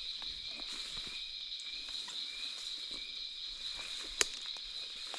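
Night insect chorus: a steady, continuous high-pitched trilling, with faint rustling underneath. One sharp click about four seconds in.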